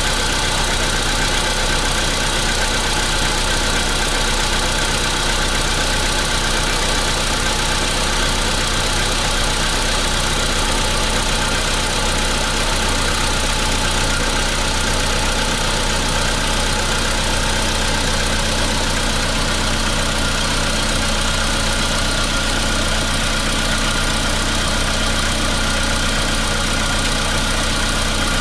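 Volkswagen Polo Sedan's 1.6-litre CFNA four-cylinder petrol engine idling steadily after a cold start at about 0 °C. The cold-start knock has almost died away.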